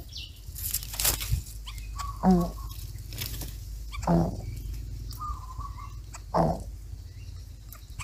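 Short, low clucking bird calls, three of them about two seconds apart, with a brief higher steady note between the last two. Faint high chirps and a few sharp clicks are scattered through.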